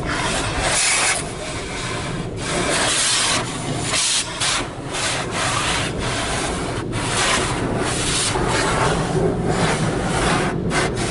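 A car wash attendant hand-scrubbing the car's body with a prep brush to take off bugs: a run of rubbing strokes with short breaks, heard from inside the car.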